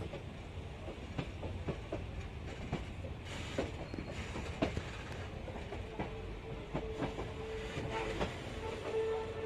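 Passenger train running along the track: a steady rumble with irregular clicks of the wheels over rail joints. About six seconds in, a steady high tone comes in and grows louder near the end.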